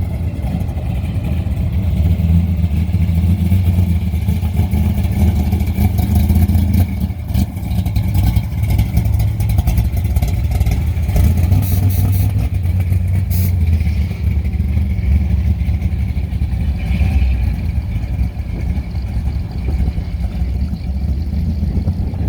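A car engine running with a deep, steady low note that grows louder a couple of times, as from a vehicle driving past.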